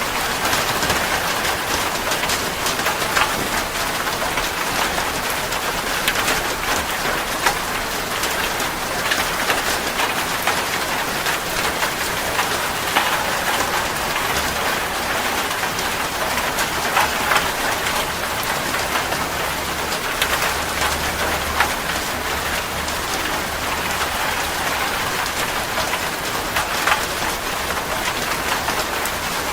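Steady heavy rain falling on a surface, a dense hiss of countless drops with individual drop taps standing out.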